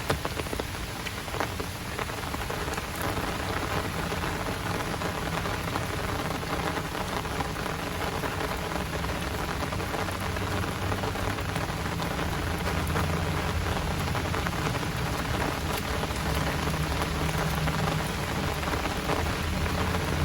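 Heavy downpour pouring onto hard surfaces, a steady hiss with close drops ticking through it. A low rumble comes in a few seconds in and slowly grows.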